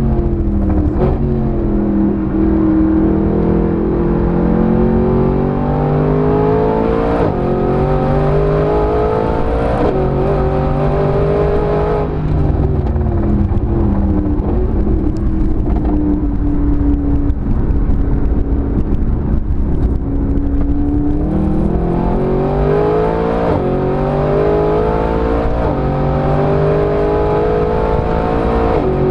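Mercedes-Benz SLS AMG's 6.2-litre V8 pulling hard on track. Its pitch climbs for several seconds, falls away as the car slows and holds level for a while, then climbs again under acceleration.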